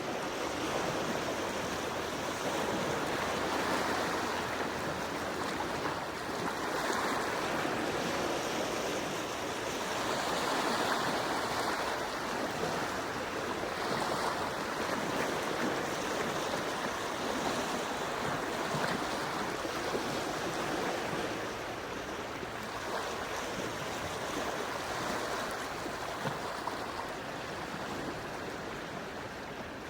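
Quiet sea waves washing gently onto a shore, a soft steady wash of water that swells and eases every few seconds.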